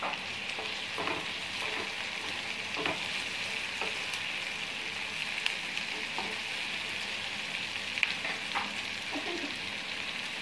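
Chopped onions and tomatoes sizzling steadily in hot oil in a pan, stirred with a wooden spatula that gives a few soft scrapes and taps against the pan.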